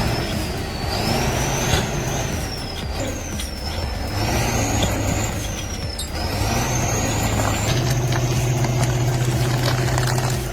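Heavy machine engine running, with a high whine that rises and falls every second or two; the low engine hum grows louder and steadier near the end.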